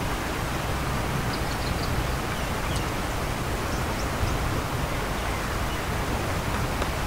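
Steady rain ambience, an even hiss, with a few faint light ticks scattered through it.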